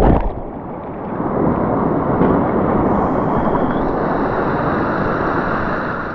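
Rushing whitewater of river rapids picked up by a GoPro on the kayak, a steady loud rush of water. A louder blast of noise cuts off just after the start.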